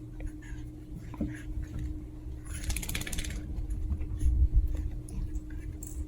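Chihuahua puppies scuffling at play: scattered claw clicks, then a second-long burst of rapid scratching about halfway through, followed by a few low bumps, over a steady low hum.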